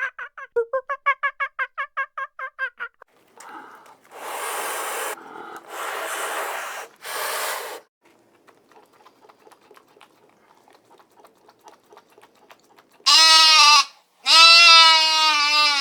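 A string of farm animal calls. First a fowl's rapid pulsed gobbling call that fades out, then three breathy hiss-like bursts and faint rapid ticking. Near the end a goat bleats loudly in long wavering calls.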